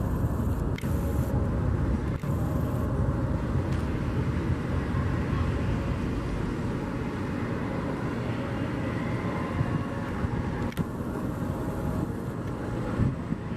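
Car engines running, a steady low rumble with no revving.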